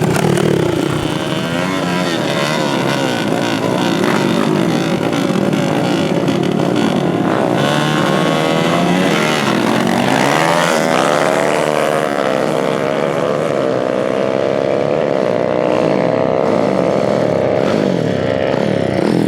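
Several dirt-bike engines running and revving, their pitch repeatedly rising and falling. In the second half one engine climbs and holds a high, steady pitch.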